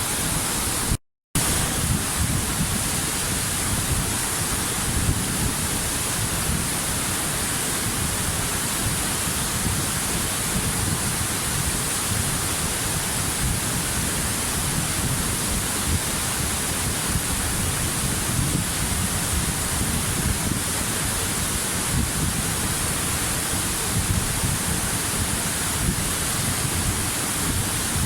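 Waterfall: a steady, unbroken rush of falling water, with a brief drop to silence about a second in.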